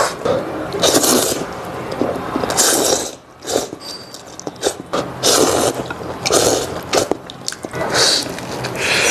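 A person eating a steamed bun close to the microphone: chewing and mouth noises, broken by about five short, noisy breathy sounds a second or so apart.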